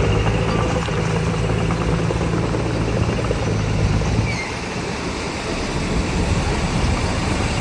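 Heavy earthmoving machine's diesel engine running with a steady low drone, easing off about four seconds in and picking up again shortly before the end.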